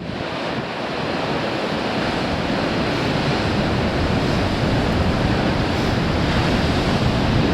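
Heavy ocean surf breaking steadily against a rocky shore, with strong wind buffeting the microphone.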